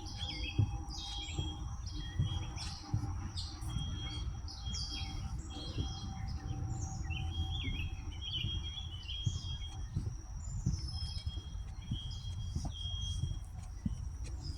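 Songbirds chirping and calling in quick, repeated short notes, over a steady high tone and a low rumble on the microphone.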